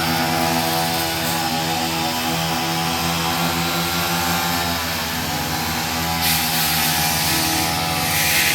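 Brush cutter engine running steadily at working speed, with brief hissy rushes about six and eight seconds in.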